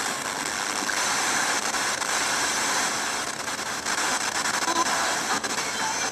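Steady hiss of static from the radio of an Art and Sound 6-in-1 entertainment centre, with faint snatches of tone near the end, typical of a radio tuned off-station.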